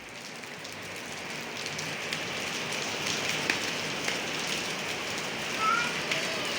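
Steady rain falling, an even hiss of drops on surfaces that builds a little in the first couple of seconds and then holds.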